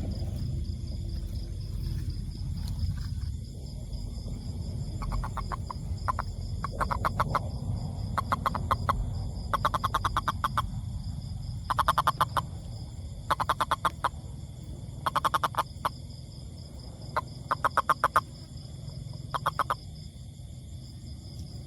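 A toad calling in short pulsed trills, each a quick rattle of pulses lasting under a second, repeated about every one and a half to two seconds from a few seconds in. A steady high-pitched whine runs underneath.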